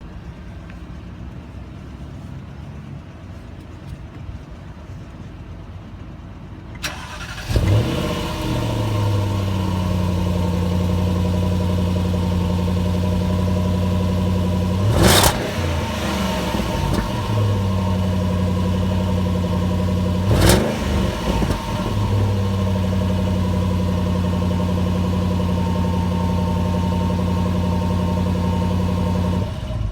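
The stock exhaust of a 2010 Jaguar XFR's supercharged V8 as the engine starts about seven seconds in, flares and settles into a steady idle. It gives two quick throttle blips, one about halfway through and one some five seconds later, then is switched off just before the end.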